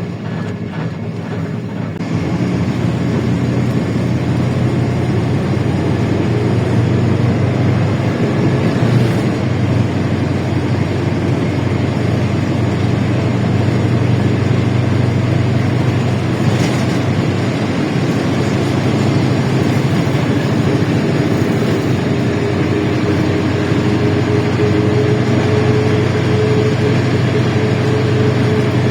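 LiAZ-677M city bus's ZIL V8 petrol engine running while the bus is under way: a steady low drone that gets louder about two seconds in and then holds.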